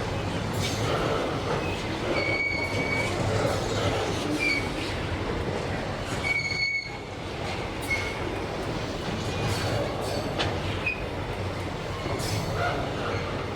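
Freight train rolling past with a steady rumble of its wagons, and short high-pitched wheel squeals several times, the clearest about two seconds in and again about halfway through.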